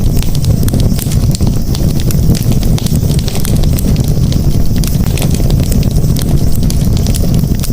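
Campfire burning: a steady low rumble of flames under frequent sharp crackles and pops of burning wood.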